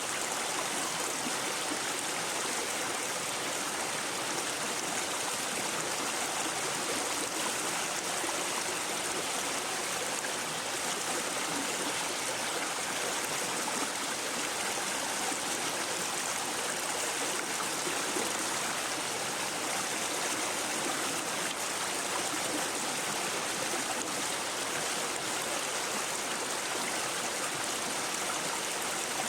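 A shallow brook babbling and gurgling over stones, a steady, even rush of running water.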